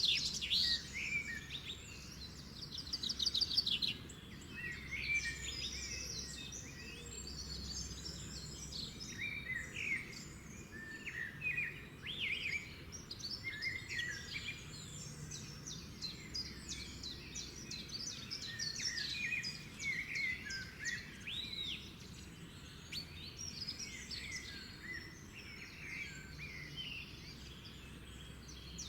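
Wild songbirds chirping and singing, many short calls and song phrases overlapping. There is a fast trill in the first few seconds, over a faint steady low background rumble.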